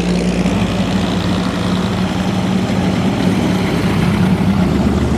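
Car engine running steadily with a deep, even note.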